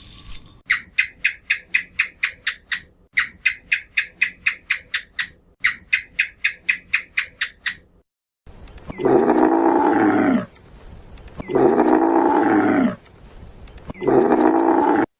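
Rapid high bird chirping, about five chirps a second, in three runs of roughly two seconds each. Then three long, loud animal bellows of about a second and a half each, the pitch bending down at the end of each.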